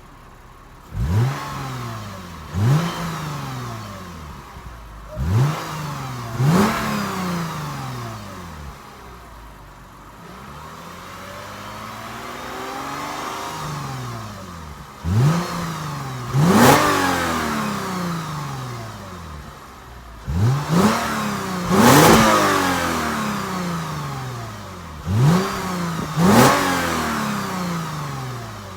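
2014 Lexus GS350 F Sport's 3.5-litre V6 through its stock exhaust, with an aftermarket K&N intake, revved repeatedly. Each rev rises sharply and falls slowly back to idle. Most come in quick pairs; one slow, drawn-out rise and fall comes about halfway through.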